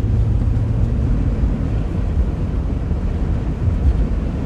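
Steady low rumble of a car driving slowly on an iced-over road, heard from inside the cabin: engine and tyre noise, with a low hum that fades out about a second in.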